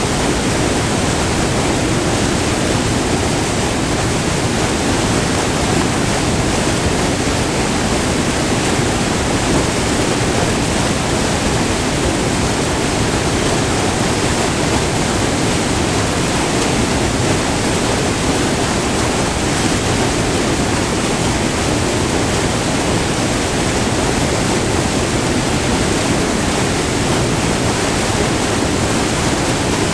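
Short multi-tiered waterfall on a river: white water pouring and splashing in a steady, loud rush.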